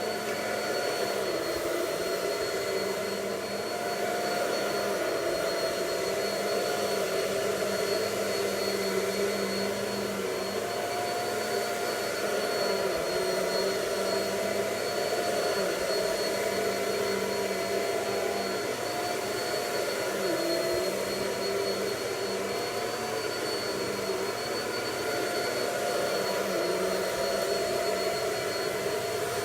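Vacuum cleaner running steadily on carpet, its motor noise carrying a constant high whine, with small rises and falls in loudness.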